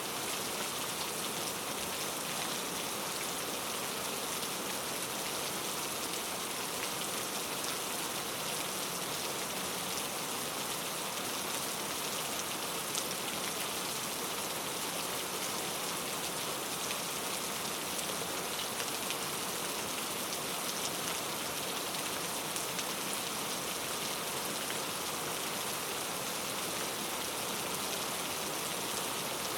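Steady rain falling: an even hiss of rain with many small drop impacts ticking through it.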